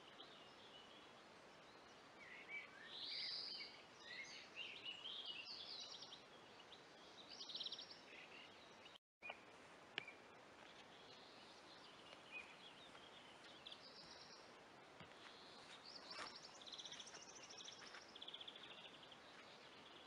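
Several songbirds singing, faint and high-pitched: short chirps and quick trilled phrases, one after another, over a soft steady hiss. A brief dropout about nine seconds in, then a single sharp click.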